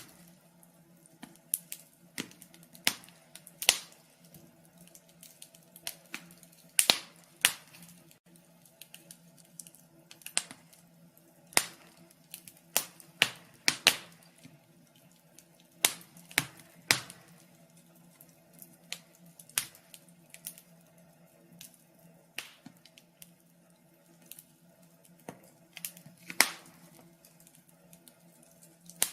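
Wood fire in a fireplace crackling, with irregular sharp pops about one or two a second, two louder ones about seven seconds in and near the end, over a faint steady low hum.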